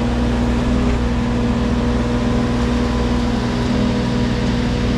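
Wacker Neuson mini excavator's diesel engine running steadily under work, a constant hum with a steady whine over it.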